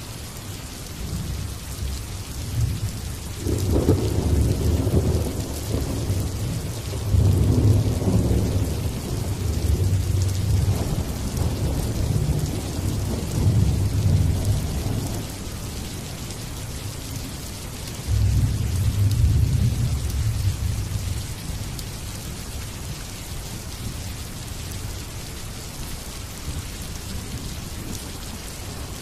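Steady rain hissing, with thunder rumbling low underneath. A long rolling rumble builds a few seconds in and swells several times before dying down. A second rumble breaks in sharply about two-thirds of the way through and fades within a few seconds.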